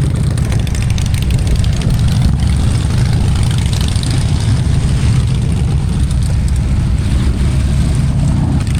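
Small car driving over a rough, potholed road, heard from inside: a steady low rumble of engine and tyres with a light rattle on top.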